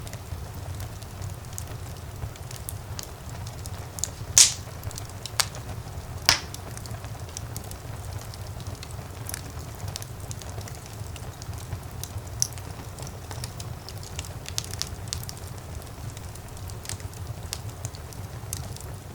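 Wood fire burning in a fireplace: a steady low rumble of flames with frequent small crackles, and two loud sharp pops from the burning logs about four and six seconds in.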